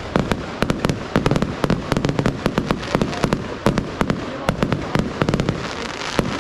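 Fireworks display with shells and salutes bursting in rapid succession: many sharp bangs, several a second, over a continuous low rumble and crackle.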